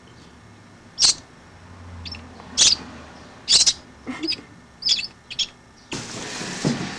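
A bird calling with short, sharp, repeated calls, about six in a few seconds. A burst of noise follows near the end.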